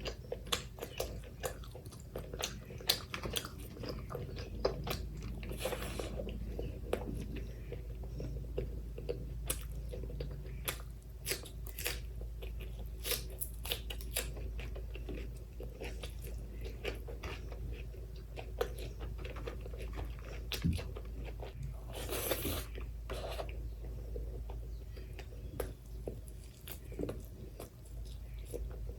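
Close-miked eating sounds of someone chewing mutton curry and rice with raw onion: a steady run of wet mouth clicks, bites and crunches. Two longer hissing bursts stand out, about six seconds in and again at about twenty-two seconds.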